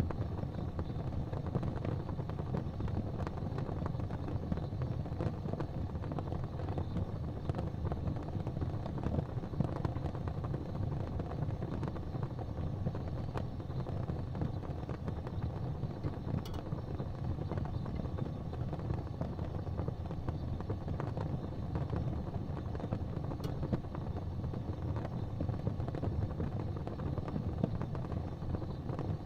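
Wood fire crackling in a fireplace over a steady low rumble, with scattered small pops and a couple of sharper cracks about 16 and 23 seconds in.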